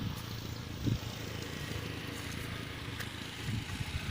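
A motor vehicle's engine running steadily as a low hum, with a soft thump about a second in and a few more near the end.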